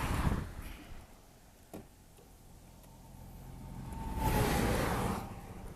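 Road traffic passing close by: a vehicle fading away at first, then after a quiet spell another swelling up and dying away about four seconds in, with a faint tone that dips slightly in pitch as it goes by. A single sharp click sounds near the start.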